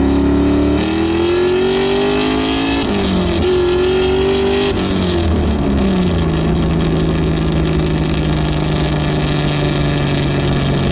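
The Miata's swapped 6.2-litre LS3 V8 heard from inside the cabin: it climbs in revs under acceleration, drops sharply at an upshift about three seconds in, then falls away again about five seconds in and settles into a steady cruise.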